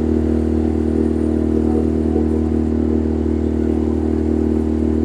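Boat engine running steadily at constant speed, a continuous low hum with no change in pitch.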